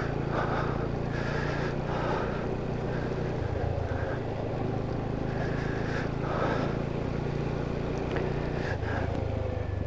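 Motorcycle engine running steadily under way, its note shifting a little a few times, with wind and road noise over it.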